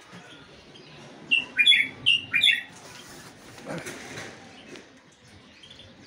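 Small birds chirping: about four sharp, falling chirps in quick succession about a second and a half in, then only a quieter background.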